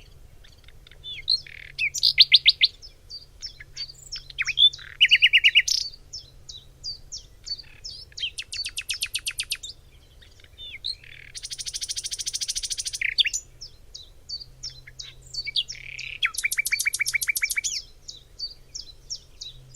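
Common nightingale singing: five phrases of fast repeated notes separated by short pauses and scattered single notes. About eleven seconds in comes a harsh, buzzy rattle lasting about two seconds.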